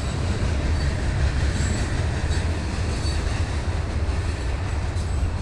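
A train running past on a nearby track: a steady low rumble, with faint brief high squeaks from the wheels.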